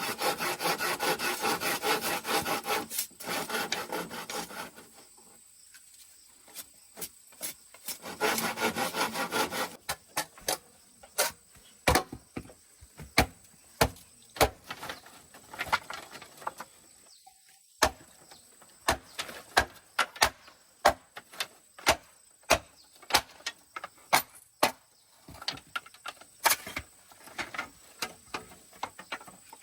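Rasping, sawing-like strokes on wood, in two bouts, followed by a long irregular series of sharp knocks or taps, about one or two a second.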